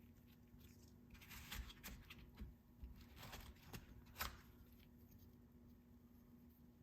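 Faint rustling and light clicks of things being handled during an unboxing, with a sharper click about four seconds in.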